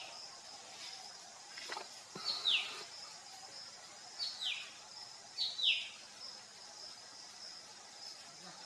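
A bird gives three short high calls, each a quick note dropping steeply in pitch, the second about two seconds after the first and the third a second later, over a steady high-pitched insect drone.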